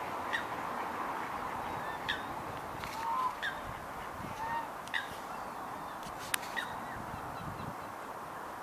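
Waterfowl on a lake giving short honking calls, about seven scattered through, over a steady background hiss. There is one sharp click about six seconds in.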